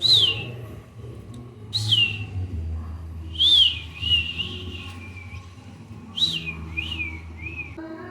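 Budgerigar calling: a series of about six clear whistled calls, each sliding down in pitch, the third running on into a longer wavering call.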